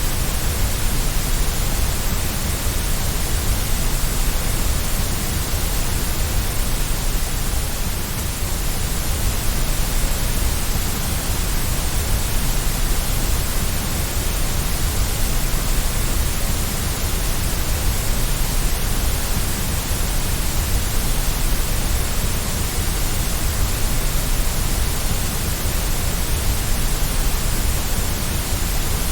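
Steady white noise for infant sleep: a continuous, even hiss with no change in level, fuller in the deep low end.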